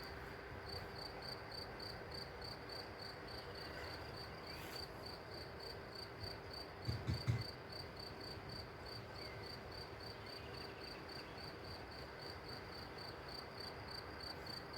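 A cricket chirping steadily, a high pulsed tone at about three chirps a second, with a brief low thump about halfway through.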